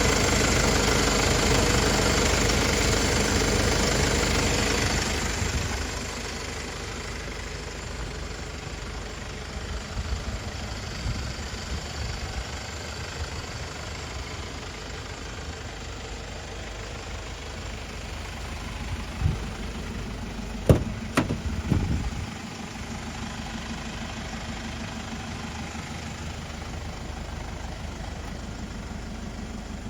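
Mercedes-Benz Sprinter 316 CDI's four-cylinder diesel engine idling, louder for about the first five seconds and then settling to a steady, quieter run. A few sharp clicks or knocks come about twenty seconds in.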